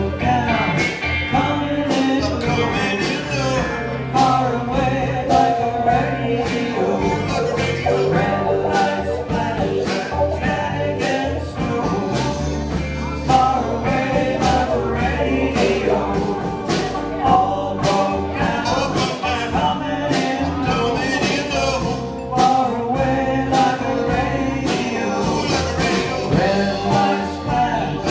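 Band playing a song with singing over a steady drum beat.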